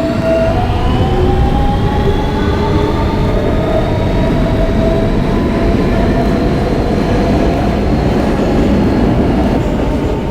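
R160B subway car with Siemens propulsion running between stations: the traction motors' whine of several tones rises slowly in pitch over the first few seconds and then holds steady, over loud wheel-on-rail rumble.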